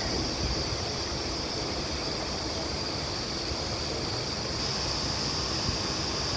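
Passenger train rolling slowly, heard from the coach's open doorway: a steady rumble and rushing noise with a constant high hiss above it.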